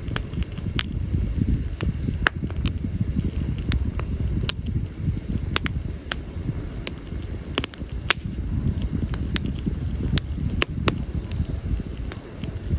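Wood campfire burning, crackling with irregular sharp pops and snaps several times a second over a low steady rumble.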